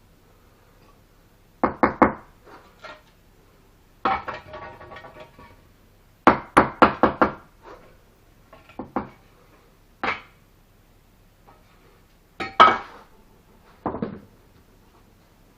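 Bricks being tapped down into their mortar bed during bricklaying: sharp knocks in quick groups of three to five, with single taps between. About four seconds in there is a longer scraping sound of tool on brick and mortar.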